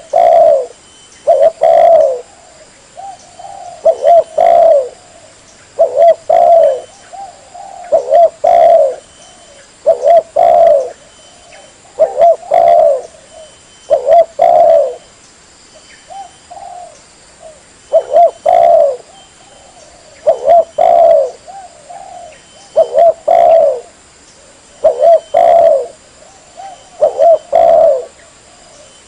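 Spotted dove (tekukur) cooing loudly: a short phrase of a few low coos repeated about every two seconds. This is the call used to lure spotted doves.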